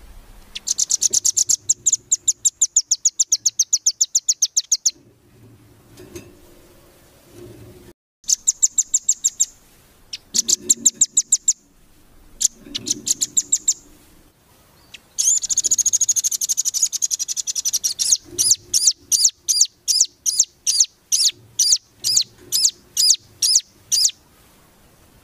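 Small songbird singing rapid-fire 'nembak' trills. It gives bursts of fast, high repeated notes one to four seconds long, a denser continuous trill a little past halfway, then a run of short, evenly spaced phrases toward the end.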